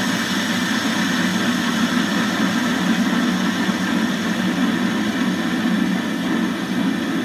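Warco metal lathe running at about 450 RPM while a lathe tool takes a facing cut across a sawn metal block: a steady machine whine and hum with cutting noise. The cut is harsh and leaves a rough finish.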